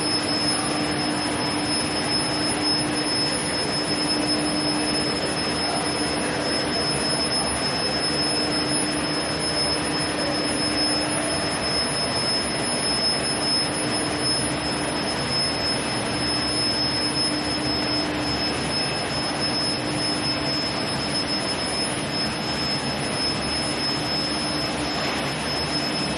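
Induction hardening line for square steel tube running: a steady high-pitched whine over a constant hiss of machinery, with a low hum that cuts in and out every few seconds.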